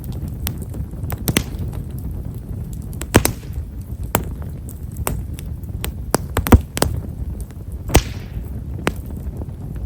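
Himeshara (Japanese stewartia) firewood burning in a bonfire: fine, irregular crackling pops over the steady low rush of the flames, with a few louder snaps, some followed by a brief hiss.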